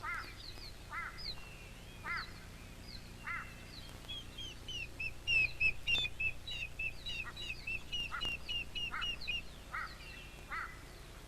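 Wild animal calls: a short call repeated about once a second, joined about four seconds in by a fast run of high chirps lasting about five seconds.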